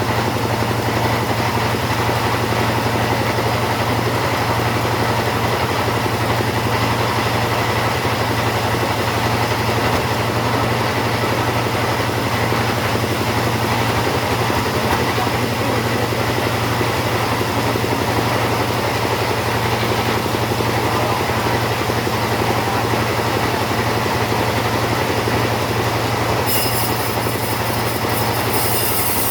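Two-stroke chainsaw running steadily at full throttle while cutting through teak wood, with no letup. Near the end the high hiss of the cut gets brighter.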